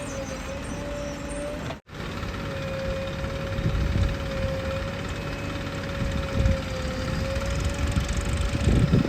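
Heavy diesel machinery running under load, with a steady, slightly wavering whine over the engine rumble and louder surges in the second half. The sound cuts out completely for an instant just before two seconds in.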